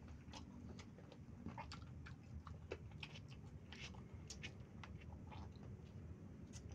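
Close-up mouth sounds of chewing yellow rice eaten by hand: soft, irregular wet clicks and smacks, several a second, over a low background hum.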